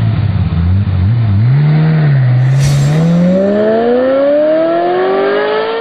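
Car engine and exhaust revving: the pitch rises and falls twice, then climbs steadily as the car accelerates hard, with a brief sharp noise about two and a half seconds in.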